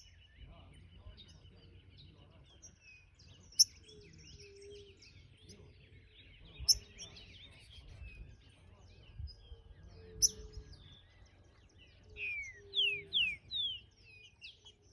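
Chiviro verde songbird calling: short, sharp, high notes about every three seconds, then a quick run of three or four downward-slurred whistles near the end, over a faint background twittering.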